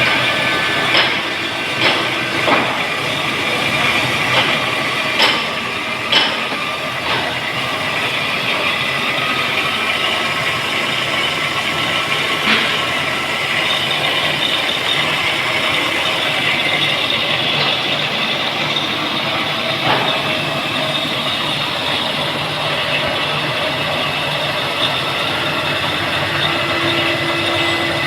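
Steel pipe mill machinery running steadily with a loud industrial din, with several sharp metal clanks in the first several seconds.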